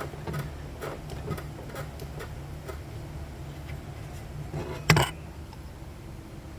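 Small metallic clicks and taps from hand work on a lawn tractor's brake linkage, with one sharp clank about five seconds in, over a steady low hum.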